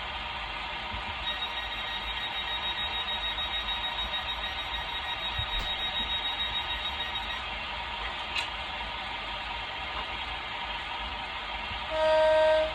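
DCC sound of a Hornby OO gauge GWR Class 800 bi-mode model, played through the model's small onboard speaker: a steady hum with a high whine that sets in about a second in and stops after about seven seconds. Near the end comes a short, loud tone at one pitch, lasting under a second.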